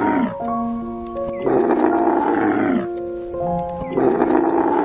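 Camel bellowing: a rough, drawn-out groan that falls away at its end, repeated about every two and a half seconds. Background music with held notes plays underneath.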